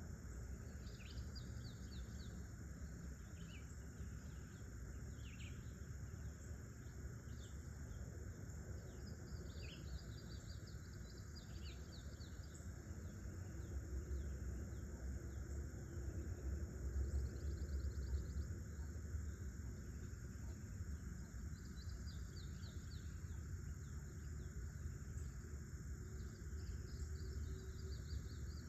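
Outdoor nature ambience: birds giving short, scattered chirps over a steady insect drone. A low rumble underneath swells about halfway through.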